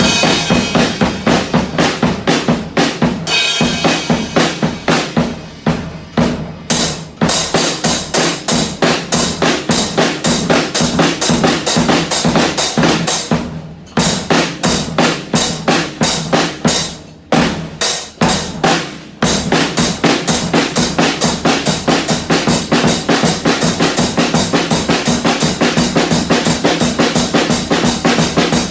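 Drum kit played with sticks: a fast, dense stream of bass-drum and snare hits with a few brief pauses midway, then a long, even run of quick steady beats.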